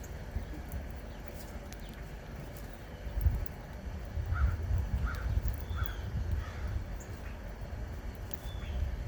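A bird gives four short calls about half a second apart, mixed with a few thin, high, falling chirps, over a steady low rumble.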